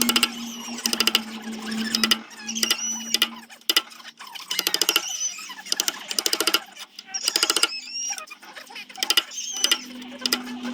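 Power sanding tool running with a steady hum, chattering against zelkova root wood in repeated bursts of rapid clicks about a second long, with squeaks in between. The hum drops slightly in pitch near the middle, then comes back up.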